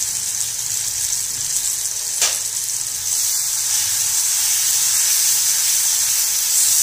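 Wet green masala paste and turmeric sizzling in hot oil as the paste's water cooks off, stirred with a silicone spatula. There is a single knock about two seconds in, and the sizzle gets louder about three seconds in, once stirring starts.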